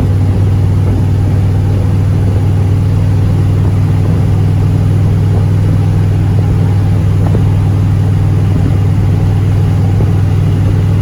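1977 Dodge pickup truck driving at a steady highway speed: engine and road noise in an even, loud, low drone.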